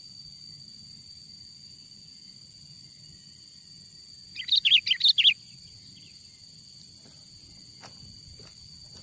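Sooty-headed bulbul (kutilang) giving one short burst of quick, loud notes about four seconds in, over a steady high insect drone.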